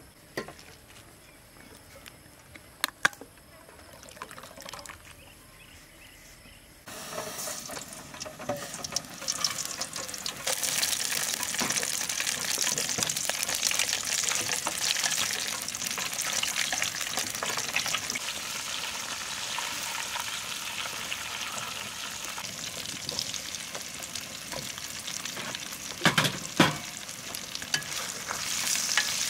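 Chili paste and dried red chilies sizzling as they fry in oil in one half of a divided stainless-steel hot pot, stirred with chopsticks. Before the sizzling starts suddenly about seven seconds in there are a few light clicks; near the end come a couple of sharp knocks.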